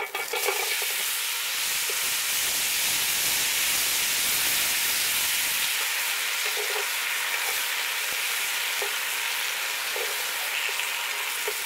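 Frozen leaf spinach hitting hot oil in a cast-iron Dutch oven. It starts sizzling at once and keeps up a steady hiss with a few small pops as the ice on the spinach flashes to steam.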